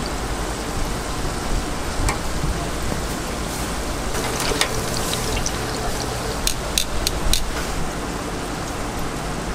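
Dough frying in a vat of hot oil, a steady sizzle, with a few sharp clicks about six and a half to seven and a half seconds in.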